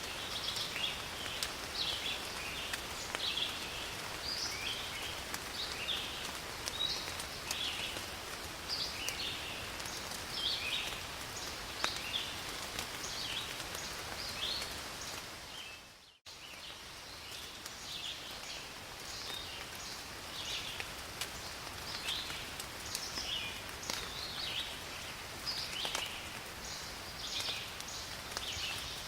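Steady rain falling in a forest, with scattered drips and a bird calling over and over in short chirps. About halfway through, the sound fades out for a moment and comes straight back.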